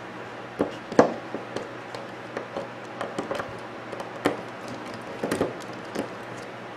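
Irregular clicks, taps and light knocks as small metal parts of a microwave magnetron cooling fan are handled and unscrewed, the loudest knock about a second in, over a faint steady hum.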